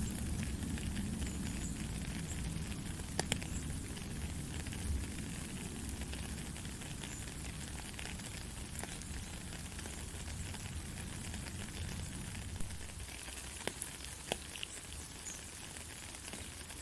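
Heavy rain falling steadily, with scattered sharp drip clicks. A low thunder rumble dies away over the first several seconds.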